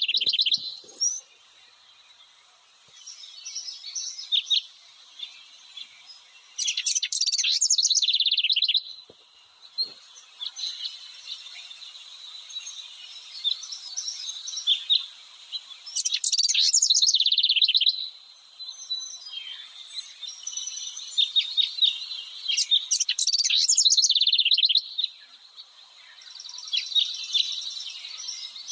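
Songbirds chirping and singing. Loud, rapid trills lasting about two seconds come several times, with quieter scattered chirps in between.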